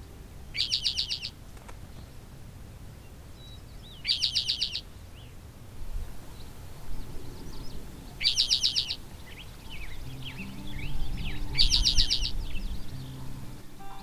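A bird's song: a quick buzzy trill about half a second long, repeated four times a few seconds apart, with softer chirps from other birds between. Low sustained background music comes in during the last few seconds.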